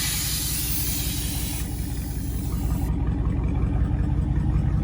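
Car engine idling with a steady low rumble, and a high hiss over it that stops about three seconds in.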